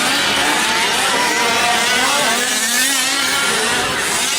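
Several 5th-scale RC trucks' small two-stroke gas engines buzzing and revving up and down together as they race around the track.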